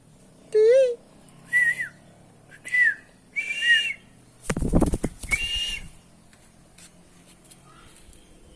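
Parrot chicks give a series of short, shrill, whistle-like calls, about five in all, the first lower and wavering. A loud handling knock or thump comes about halfway through.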